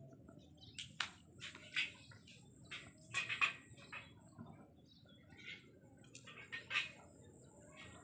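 Birds chirping: short, sharp chirps scattered irregularly, with a quick cluster about three seconds in and another near the end, over a steady high-pitched hiss.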